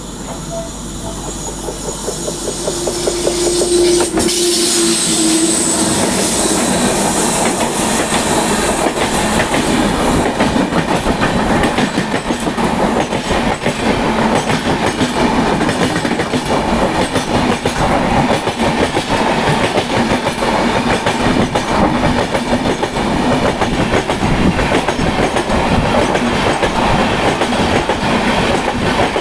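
Express passenger train running at speed, heard from aboard the coach: wheels clattering over the rails with a dense, steady rumble that grows louder over the first few seconds.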